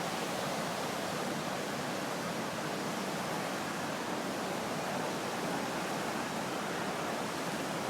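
Steady rush of the flood-swollen Deerfield River, a constant even roar of fast water.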